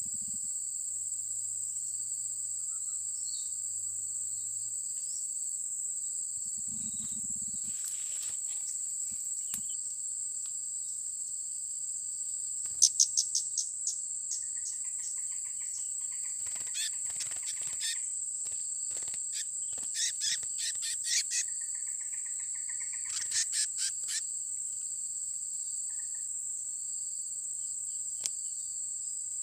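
Steady high-pitched insect drone, with four bursts of rapid chattering bird trills about 13, 17, 20 and 23 seconds in, the first the loudest.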